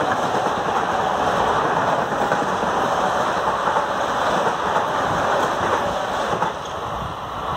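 Metro-North commuter train passing close on the track and pulling away, a loud steady rumble of wheels on rail. The sound drops off about six and a half seconds in as the last cars go by.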